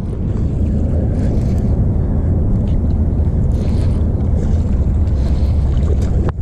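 Steady low rumble on a fishing boat out on the water, wind buffeting the microphone mixed with boat noise, with a short sharp tick near the end.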